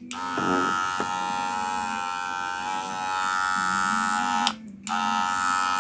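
Wahl Senior cordless hair clipper running with a steady buzz, cutting out briefly twice, once right at the start and once about four and a half seconds in. Freshly fitted with a new motor and battery, it is being tested by ear for excess noise.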